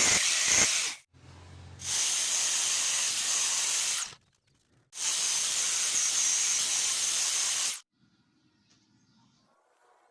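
TIG welding arc on aluminum hissing in three runs: the first stops about a second in, then two longer runs of about two to three seconds each with a short break between, the torch falling quiet near the end.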